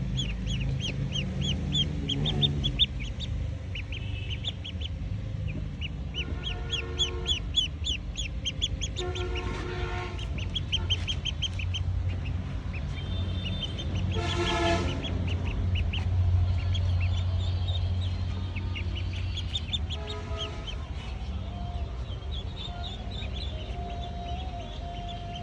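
Poultry calling: a steady run of rapid, high chirping peeps, with a louder call from a larger fowl every few seconds, over a low steady rumble.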